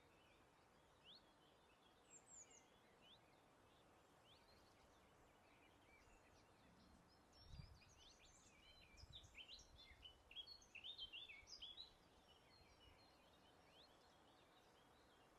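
Faint wild birdsong: several small birds chirping and twittering over a soft steady background hiss, growing into a busier burst of quick high twitters past the middle. A brief low rumble comes just before that burst.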